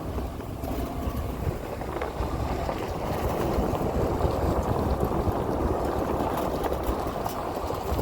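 A vehicle driving slowly over rough ground, a steady rumble of engine and road noise with wind on the microphone, growing a little louder about midway.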